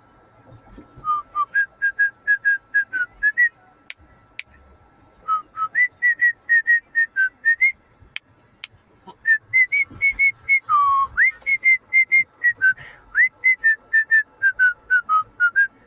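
Pet cockatiel whistling a tune: runs of quick, short whistled notes with a few upward swoops, pausing briefly around 4 and 8 seconds in.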